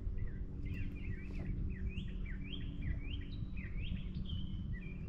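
A songbird singing a quick run of short rising chirps, about two a second, over steady low background noise.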